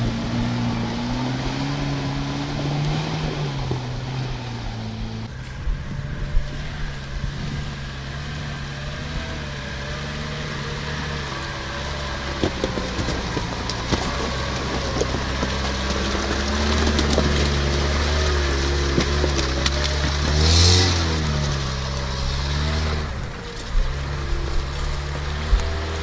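Off-road 4x4 engine working under load, its pitch rising and falling as the driver works the throttle, with scattered knocks and clunks. There is a brief hiss about twenty seconds in.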